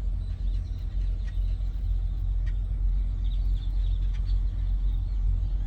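Steady low vehicle rumble, with a large flock of birds chattering faintly over it in short, high chirps.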